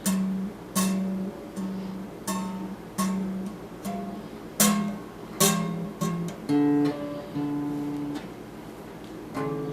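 Guitar picked note by note: about a dozen single notes, each with a sharp pick attack that fades away, some longer and higher notes held toward the end.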